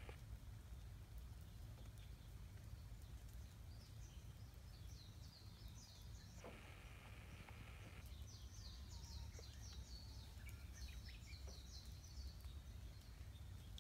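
Faint birdsong: quick series of high chirps about four seconds in, and again from about eight to twelve seconds, over a low steady rumble.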